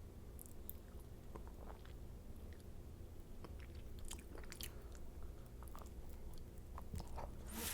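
Close-miked chewing and biting of macarons: soft crisp clicks of the shells breaking and wet mouth sounds at irregular intervals. A louder crackle comes near the end.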